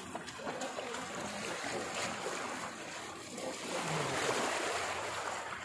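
Running, splashing water, a steady rush that swells louder a few seconds in.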